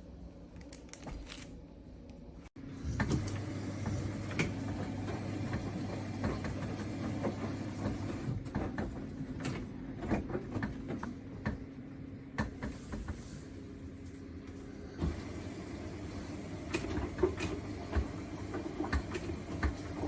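Steady low hum of a Cookology chest freezer running, with frequent light clicks, knocks and rustles over it. It becomes louder about two and a half seconds in.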